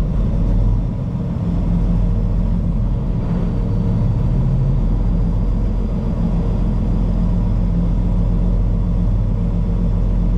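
Steady low rumble of a vehicle's engine and drivetrain at slow speed, heard from inside the vehicle as it creeps along in a line of traffic.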